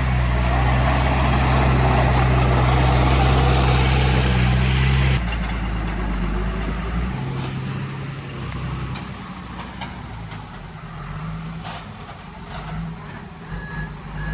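Heavy diesel machinery engine running loud and steady, with a deep hum. About five seconds in it cuts off abruptly to a quieter engine sound that carries on to the end.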